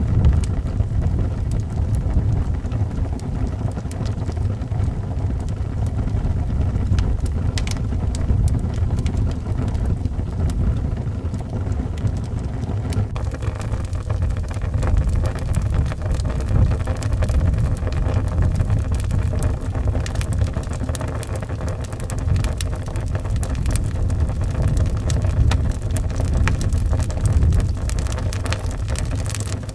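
Wood fire crackling with scattered sharp pops, which come more often from about halfway through, over a deep, steady howling wind.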